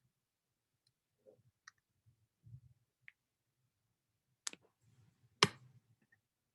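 A few faint scattered taps, then two sharp clicks about a second apart in the second half.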